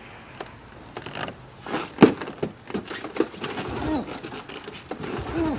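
Snowmobile recoil starter being yanked over and over on a cold engine that doesn't catch: clacks and knocks, one sharp one about two seconds in, then short rising-and-falling whirs from the pulls near the end.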